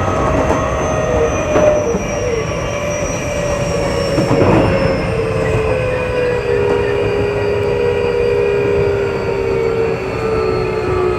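Keio 8000 series electric train running, its motor whine slowly falling in pitch as the train slows, over the rumble of the wheels, with a couple of brief knocks from the track.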